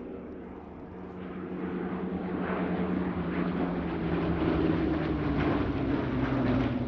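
Rolls-Royce Merlin V12 engines of Hawker Hurricanes in a flypast. The sound grows louder from about a second in, and the engine note drops in pitch as the aircraft pass, about five seconds in.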